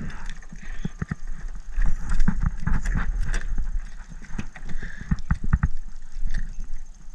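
Irregular clicks and knocks as a just-hooked fish is reeled in and landed: a fishing reel being cranked, with handling knocks.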